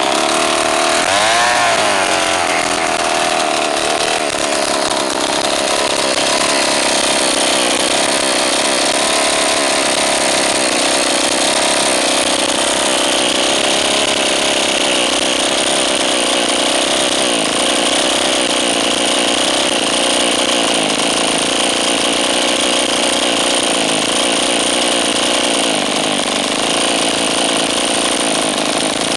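Small 29cc two-stroke scooter engine running at high speed right after catching, with a quick rev rising about a second in, then running steadily for the rest of the time.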